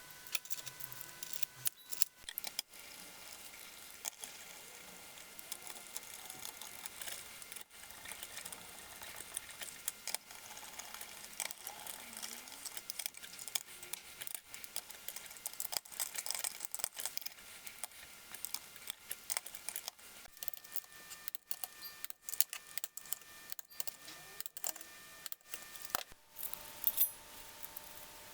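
Rapid, dense metallic clicking and clattering of hand tools working on engine parts during an engine rebuild, over a faint steady whine. The whine changes pitch about two-thirds of the way through and again near the end.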